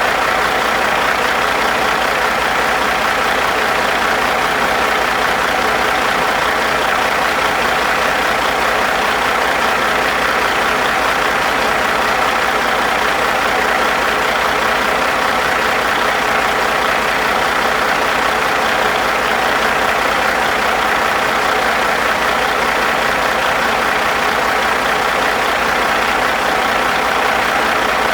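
1996 Caterpillar 3406E 14.6-litre inline-six diesel engine running steadily at an even speed.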